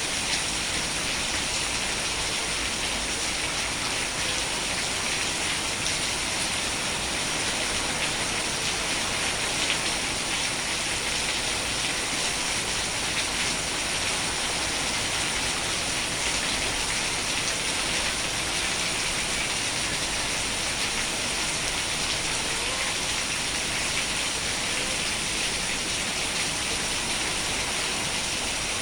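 Steady rain falling, an even unbroken patter.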